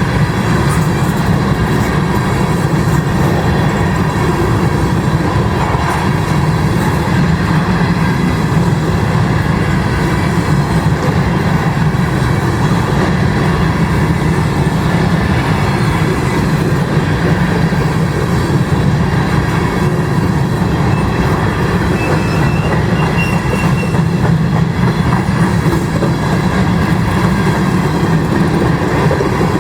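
Grain train's covered hopper cars rolling past, a steady rumble of steel wheels on rail, with a faint brief wheel squeal about three-quarters of the way through.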